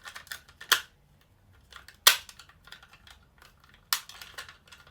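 Sharp clicks and knocks of hard plastic parts of a Buzz Lightyear action figure being worked and pried at by hand, three distinct clicks with the loudest about two seconds in and light handling rustle between.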